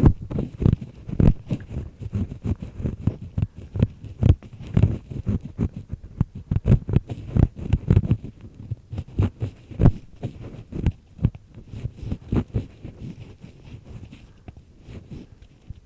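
Ear pick scraping inside an ear canal close to the microphone: dense, irregular scratches and crackles with dull low thumps, growing quieter over the last few seconds.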